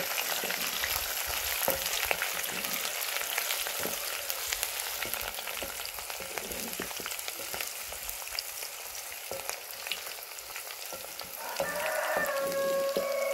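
Chopped onions and green pepper sizzling in hot oil in an aluminium saucepan, stirred with a wooden spoon that scrapes and taps against the pan. Near the end a brief pitched sound rises over the sizzle.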